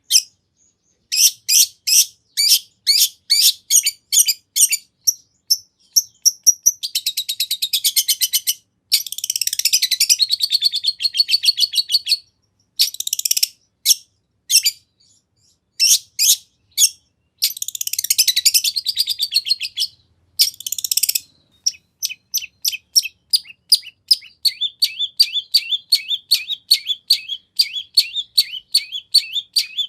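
Long-tailed shrike singing a varied song full of mimicked phrases: series of sharp, high chips, two dense rapid rattling passages, and a fast run of repeated chips near the end.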